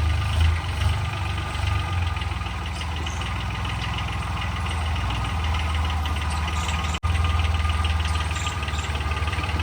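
Homemade 26 hp tractor's engine running steadily with a fast, even pulsing beat; the sound drops out for an instant about seven seconds in.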